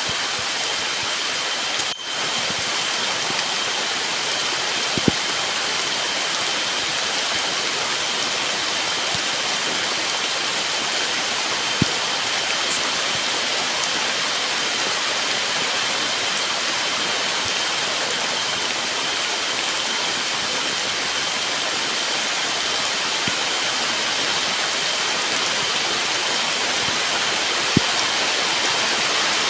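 Heavy rain falling in a steady downpour, with a few sharper drop impacts standing out now and then. A faint, steady high-pitched tone runs beneath the rain.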